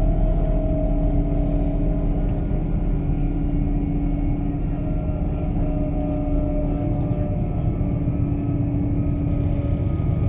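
Electric train running at speed, heard from inside the carriage: a steady low rumble with the even whine of the traction motors, some of its tones drifting slightly in pitch.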